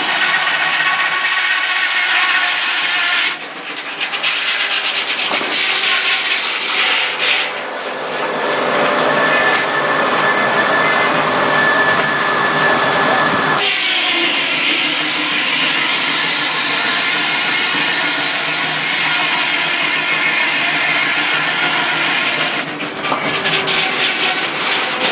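Sawmill running and sawing wood: a loud, continuous machine noise with a high whine, changing sharply in sound several times as the cut goes on.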